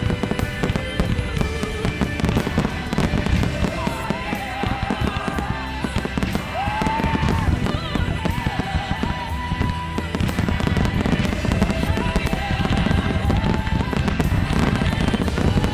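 Fireworks display: rapid, overlapping bangs and crackle of shells bursting, without pause, over the show's music soundtrack carrying a melody.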